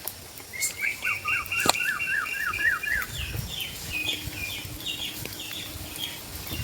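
A songbird calling: a quick run of rising notes, about four a second, then a run of shorter, higher notes, over a steady hiss of rain.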